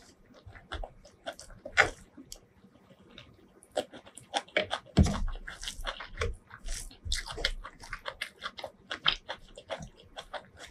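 Close-miked chewing of a mouthful of rice and chicken curry: a run of short, wet smacking clicks, along with hands squishing rice and curry together. There is one louder, deeper thump about halfway through.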